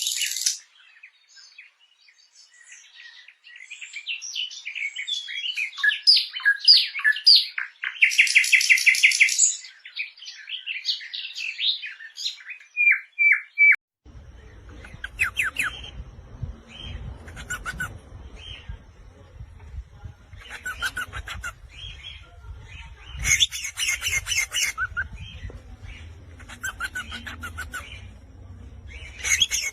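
Small songbirds chirping and trilling in quick, rapid phrases. About halfway through the recording changes abruptly to another bird's repeated bursts of chirps, over a low steady background hum.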